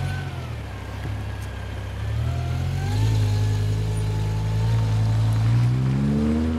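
The twin-supercharged V10 of a G-Power Hurricane RS BMW M5 E60 runs as the car pulls away at low speed, with a deep steady note. The note rises in pitch near the end as the engine picks up revs.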